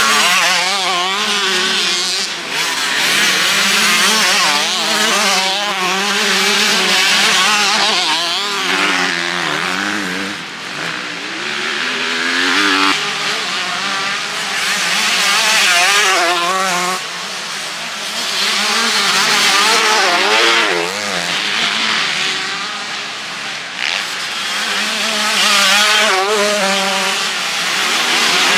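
Motocross bikes racing past, several engines revving hard and dropping back over and over as the riders go through the gears, swelling and fading every few seconds.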